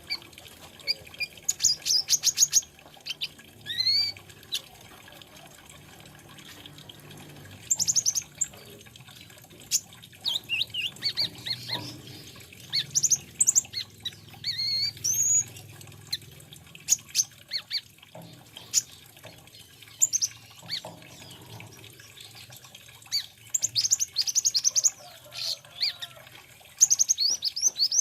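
Sunbird (kolibri ninja or konin) singing: repeated bursts of quick, high-pitched chirps and sweeping notes, with short pauses between phrases.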